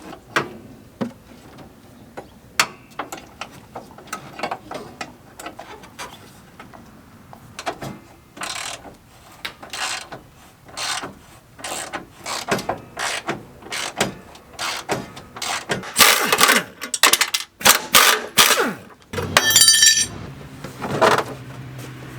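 Ratchet wrench clicking and metal parts clinking as bolts are worked, in irregular runs of short clicks that grow louder and busier about halfway through. A brief high whine comes near the end, followed by a steady low hum.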